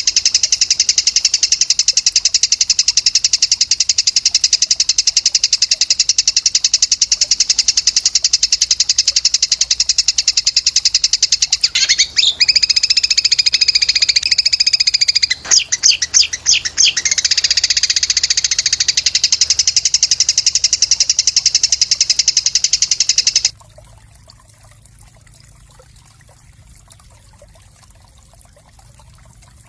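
A small songbird's rapid, buzzing trill, repeated as one dense run, broken by a few clearer whistled notes about halfway. It cuts off abruptly about three-quarters of the way through, leaving a faint hiss.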